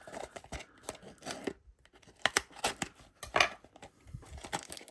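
Paper lucky envelope being opened by hand: an irregular run of sharp paper crackles, snips and tears, loudest twice in the middle.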